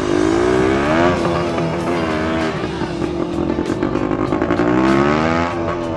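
Dirt bike engine revving, its pitch rising and falling twice, over background music with a steady beat.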